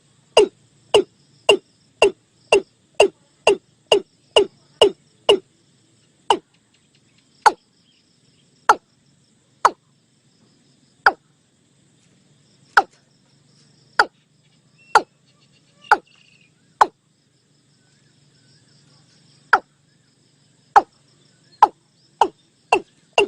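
Watercock calling: a long series of short, hollow notes, each dropping in pitch, about two a second at first, slowing and spacing out through the middle, then quickening again near the end.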